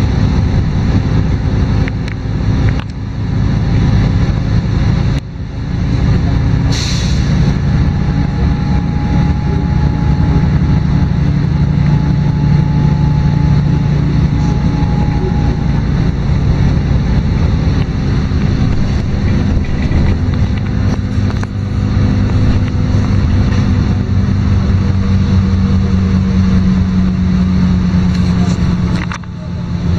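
LiAZ-5292 city bus's diesel engine running steadily while the bus is under way, heard from inside the cabin, its drone shifting slightly in pitch. A short burst of air hiss comes about seven seconds in.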